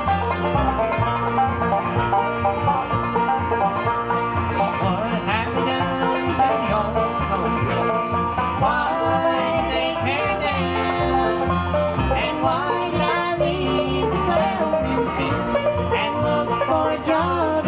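Bluegrass music: banjo picking over guitar, with a bass line that steps from note to note.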